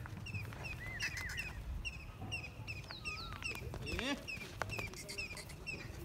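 Birds chirping outdoors: a short, high chirp repeats about three times a second, with a few looping whistled calls over it. There are scattered knocks, and a low rumble runs underneath.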